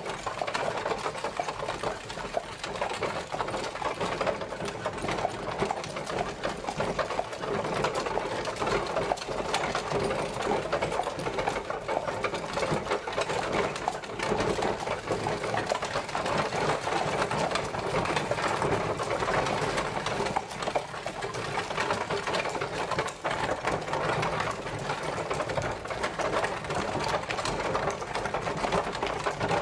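Horse-drawn carriage travelling: a steady, rapid rattle and clatter of the carriage rolling along, without a break.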